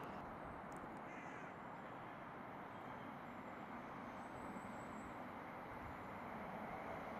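A crow cawing over a steady background rumble.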